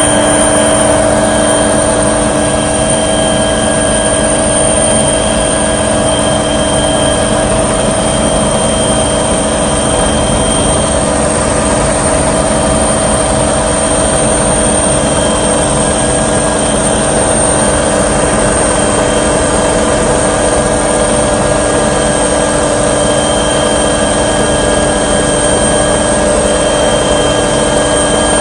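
Steady, loud drone of a small aircraft's engine and propeller or rotor, heard from inside the cabin, with several steady tones over a constant rush of noise.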